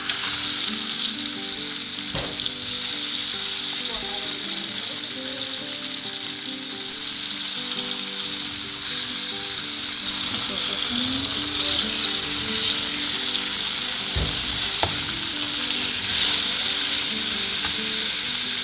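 Dried apricots and prunes frying in oil in a metal pan, a steady sizzle as they are tipped in and stirred, with a few light knocks.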